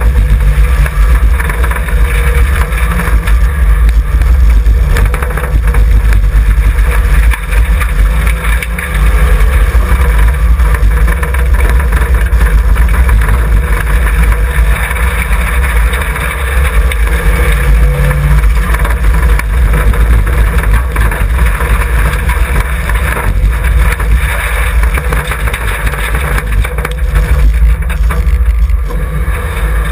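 In-cabin sound of a stripped-out, glassless Mitsubishi Sigma driven hard on dirt: the stock engine running loud under load with its revs rising and falling, amid wind through the open window frames and frequent clatter and rattles from the bare shell.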